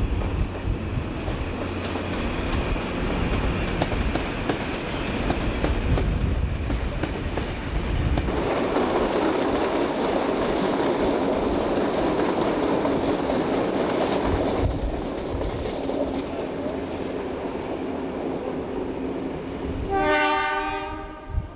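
A train running on the rails with a steady rumble and wheel noise, heavier and rougher for several seconds mid-way. Near the end comes a short blast of a locomotive horn.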